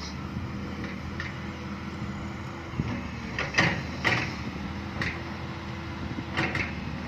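Excavator's diesel engine running steadily, with a handful of short, sharp squeaks or clanks from the machine's metal parts in the second half.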